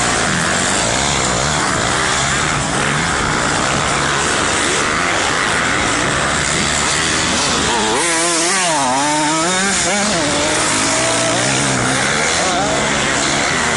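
Motocross bike engines running hard with the throttle on and off, a buzzy engine sound. About eight seconds in, one engine comes to the fore for a couple of seconds, its pitch wavering quickly up and down.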